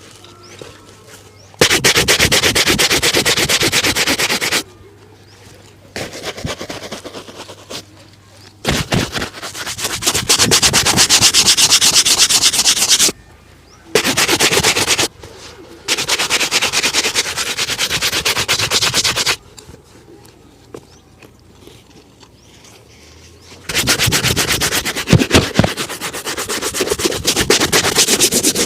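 Rapid back-and-forth rubbing strokes over a leather shoe during a shoe shine, typical of a shine brush. It comes in several bursts of a few seconds each, with short pauses between them.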